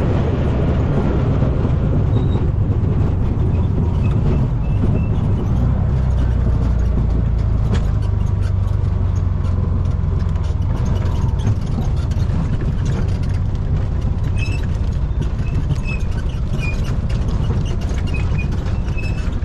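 Steady low rumble of a motor vehicle driving along a dirt road.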